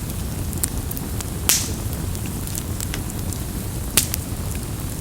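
Wood campfire burning, crackling with scattered sharp pops over a steady low rumble. Two louder snaps come about a second and a half and four seconds in.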